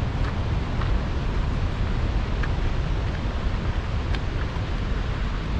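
Large waterfall rushing steadily, a constant noise with a heavy low rumble.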